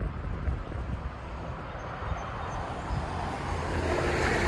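Road traffic: a steady low rumble of car noise, with a passing car's tyre hiss growing louder near the end.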